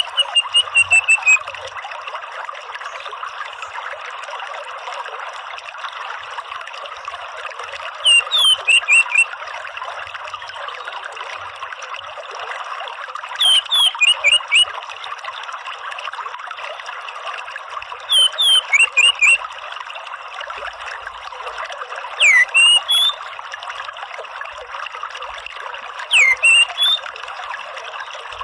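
Orange-headed thrush (anis merah) calling in short bursts of several quick, falling chirps, repeated every four to five seconds, over a steady rush of running water.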